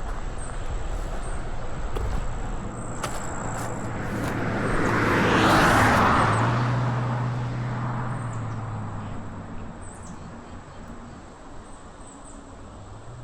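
A car driving past: its tyre and engine noise swells to a peak about six seconds in, then fades away, its low hum dropping in pitch as it goes.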